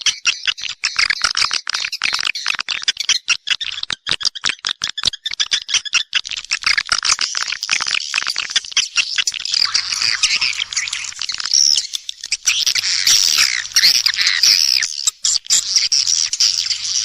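Edible-nest swiftlets calling: a dense stream of rapid clicks and chirps that turns into continuous twittering chatter about halfway through. This is a swiftlet-house lure call, the sound played to draw swiftlets in to roost and nest.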